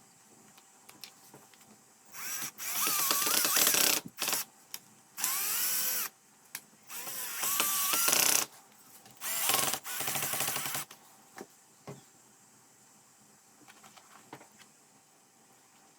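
Handheld electric drill-driver run in four short bursts of one to two seconds each, its motor whine rising and wavering within each burst, with a few small clicks between them.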